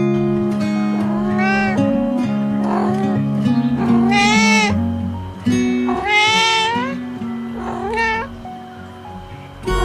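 A cat meowing about five times over light background music, each meow rising and falling in pitch, the two loudest a little before and after the middle.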